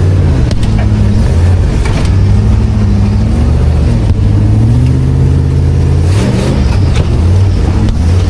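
Off-road 4x4's engine running and being revved on the trail, its pitch rising and falling several times, with a few sharp knocks.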